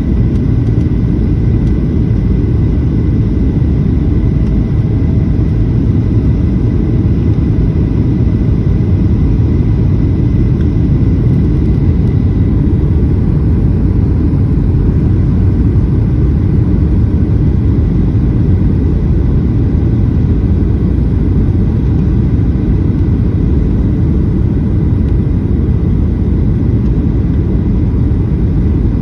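Airliner cabin noise on final approach: a loud, steady rumble of engines and airflow, with a faint thin whine.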